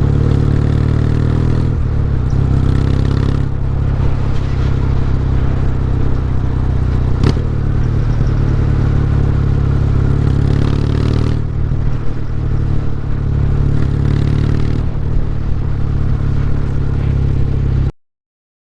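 Exhaust note of a 2024 Kawasaki W800's air-cooled parallel twin breathing through W650 POSH aftermarket mufflers, running steadily with its tone shifting a few times. There is a sharp click about seven seconds in, and the sound cuts off suddenly near the end.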